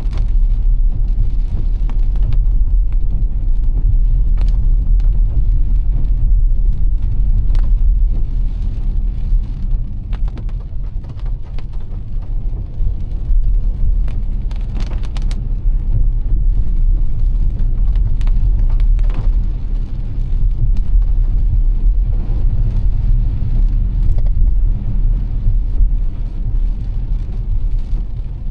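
A car driving in heavy rain: a steady low road rumble, with scattered sharp ticks of raindrops striking the car.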